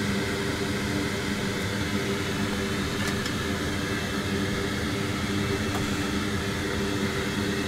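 Bench fume extractor fan running steadily: an even rush of air with a faint low hum.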